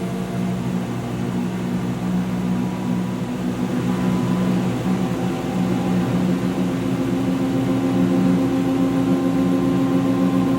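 2006 GE Profile top-loading washer in its spin cycle, the tub accelerating but not yet at full speed: a steady motor and drive hum whose tones slowly rise in pitch as it gets gradually louder.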